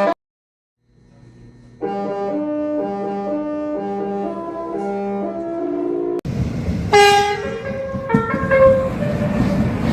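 Electronic background music with a steady melody, cutting about six seconds in to a subway train's horn sounding over rail and station noise, with one loud blast followed by a few shorter stepped tones.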